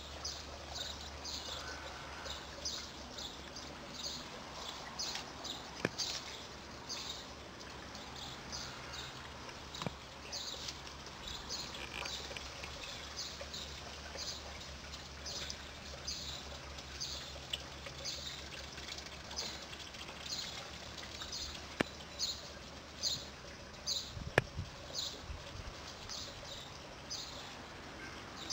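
A bird chirping over and over in short high notes, about twice a second, with a steady low hum underneath. A few sharp clicks and a low thump come near the end.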